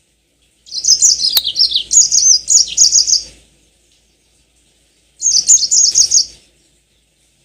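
Yellow-fronted canary (Mozambique canary) singing in two fast, high trilled phrases, a long one about a second in and a shorter one near the end, with a pause between them.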